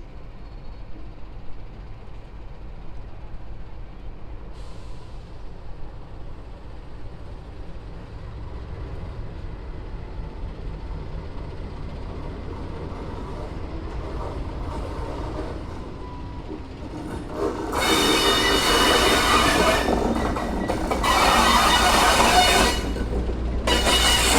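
NR class diesel-electric locomotive running light engine: a low engine rumble that grows as it approaches, then from about two-thirds of the way in a much louder rush of wheel and rail noise with a steady high-pitched wheel squeal.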